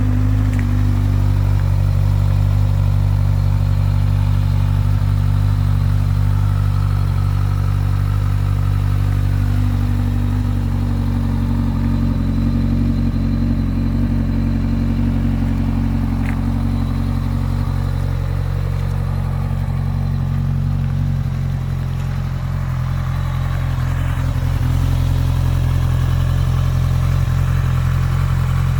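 2011 Kawasaki Z1000's inline-four engine idling steadily after a cold start, dipping slightly in level about two-thirds through.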